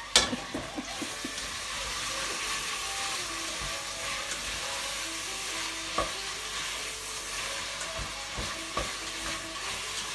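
Diced onions, carrot and chicken sizzling steadily in a pan on high heat, starting with a sharp knock and with a few fainter knocks later on.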